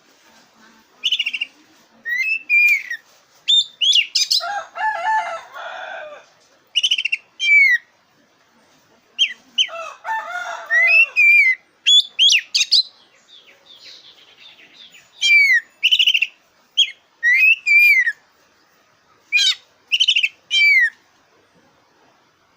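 Black-breasted oriental magpie-robin singing loud, short whistled phrases with sharp downward-sweeping notes, separated by brief pauses. Twice, about four seconds in and again near the middle, it breaks into longer, harsher, grating passages.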